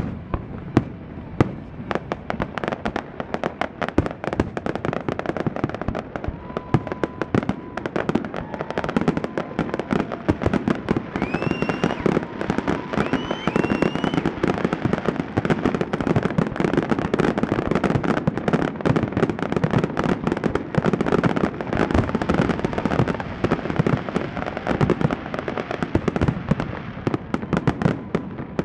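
Aerial fireworks going off in a rapid, continuous barrage of bangs and crackling, with a few short rising whistles about halfway through.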